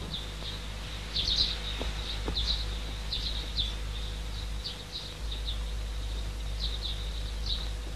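Small birds chirping in short, scattered chirps, over a steady low hum.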